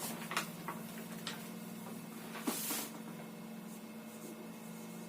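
Faint steady electrical hum with a few light clicks in the first second or so and a brief rustle about two and a half seconds in.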